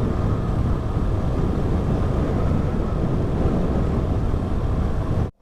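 Steady rushing wind noise over the microphone of a KTM Duke 200 motorcycle riding at speed, with the bike's engine underneath. It cuts out abruptly just before the end.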